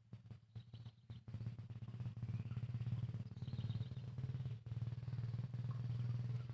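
A steady low, pulsing hum like a small engine running, with faint bird chirps over it.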